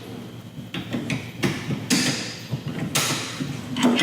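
Hand tools clicking and clanking on metal: a string of irregular sharp knocks with rattling between them, as old factory air-conditioning hardware is unbolted.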